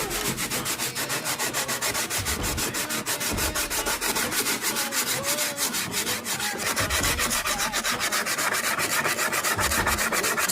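Rapid, rhythmic sanding strokes on a fibreglass and gelcoat kayak repair, a steady scraping rub at about seven strokes a second.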